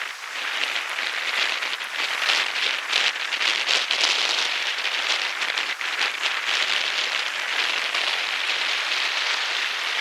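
Strong snowstorm wind, with blowing snow: a steady hiss with fine crackling.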